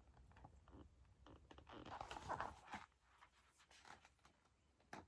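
Faint rustling of a picture book's paper pages being handled and turned, with a few light clicks, loudest a little after two seconds in.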